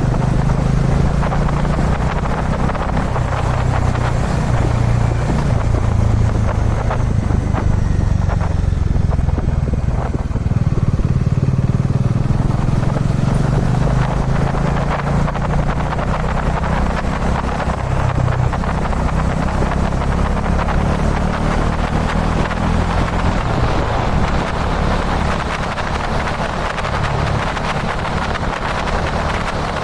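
Kawasaki Dominar 400's single-cylinder engine running steadily while the motorcycle is ridden, with constant wind and road noise.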